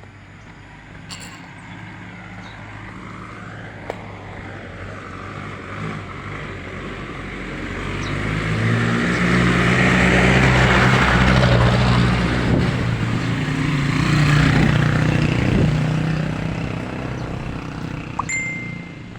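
A motor vehicle passes close by on the road: its engine and tyre noise grow louder to a peak about ten seconds in, then fade away. A short high beep sounds near the end.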